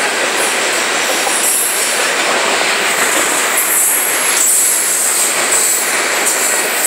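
Train running close by: a loud, steady rail rumble with high-pitched wheel squeal that comes and goes.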